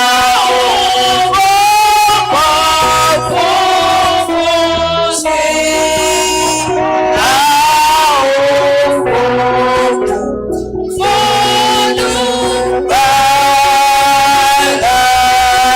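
Worship singing in a church service, voices carrying a gospel melody in long held phrases over steady instrumental accompaniment.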